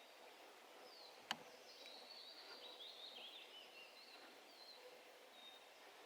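Faint songbirds singing in a forest, warbling and chirping over a soft background hiss. A single sharp click about a second in stands out above the birdsong.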